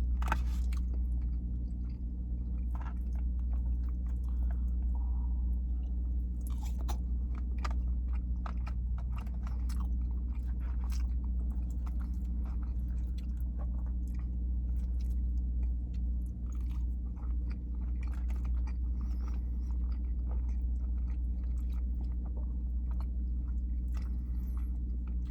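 A person chewing loaded fries close to the microphone, with many small wet mouth clicks, over a steady low hum.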